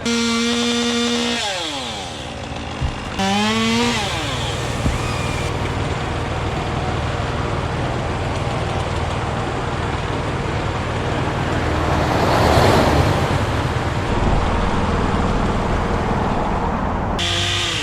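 Chainsaw revving high and dropping back twice in the first few seconds, over a steady bed of busy road traffic. A vehicle passes about two-thirds of the way through, and the saw revs up again near the end.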